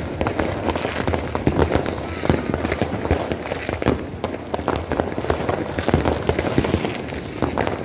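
Fireworks and firecrackers going off without a break: many overlapping bangs and crackles, several a second.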